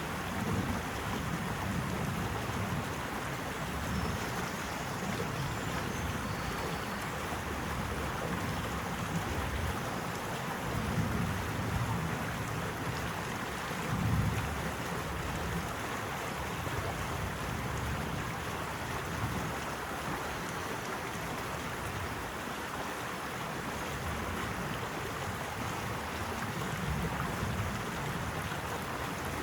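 Steady rushing water with a low rumble that swells and eases every few seconds.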